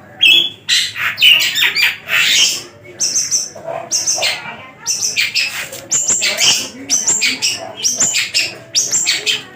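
Long-tailed shrike (pentet, cendet) singing nonstop: a fast, varied run of harsh chattering notes and sharp whistles, full of mimicked phrases of other birds' songs.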